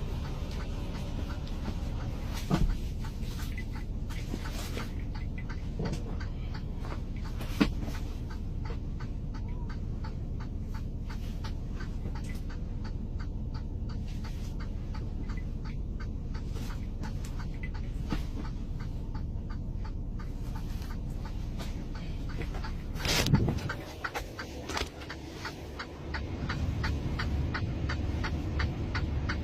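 Steady low rumble of a vehicle engine idling, heard from inside the cab, with a few sharp knocks. The loudest knock comes about 23 seconds in, after which the rumble dips for a couple of seconds before it returns.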